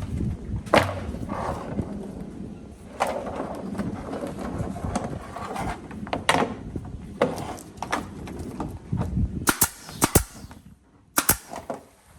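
Irregular knocks and clatter over a low rumble, with a quick run of sharp clicks about nine to ten seconds in and another near the end.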